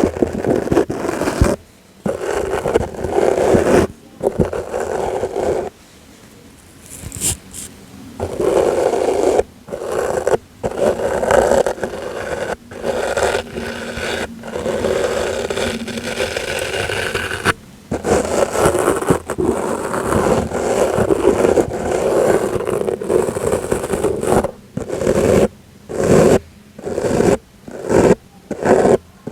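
Soft brush stroked right against the microphone, a scratchy swishing in long strokes with short breaks, turning into quicker short strokes near the end.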